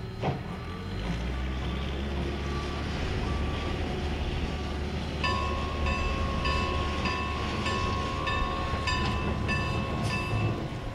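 A train passing with a steady low rumble; about five seconds in a bell starts ringing, with evenly spaced strokes a little under two a second.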